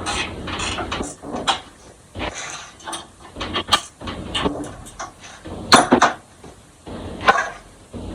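Hand tools working sheet metal: irregular sharp metallic clicks and short scraping stretches, with no motor running.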